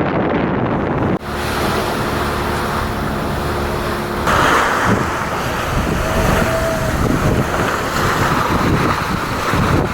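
Wind buffeting the microphone over the rush of water and waves along the hull of a sailing yacht under sail, with the sound changing abruptly twice.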